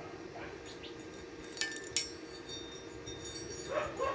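Two sharp metallic clinks about half a second apart, each ringing briefly, like a piece of steel being struck or set down on metal.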